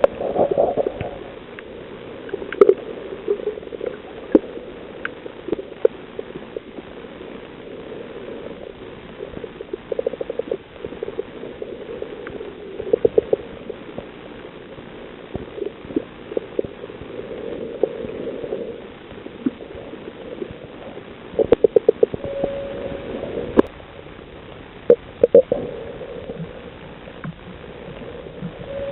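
Underwater sound on a coral reef: a steady gurgling hiss scattered with sharp clicks and pops, some in quick rapid runs, and a few brief tones.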